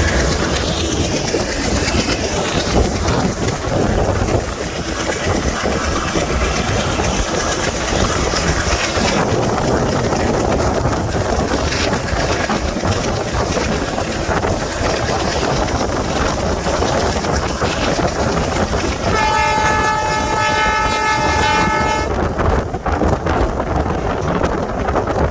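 Train running along the track: a steady rumble of wheels on rail with a rush of air. Near the end the locomotive horn sounds once, a steady chord-like blast of about three seconds.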